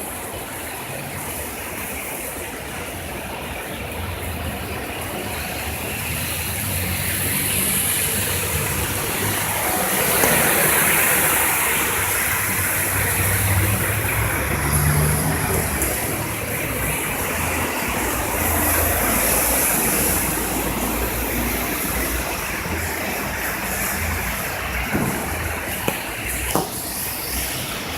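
Heavy rain falling steadily. A low vehicle rumble swells through the middle stretch and fades.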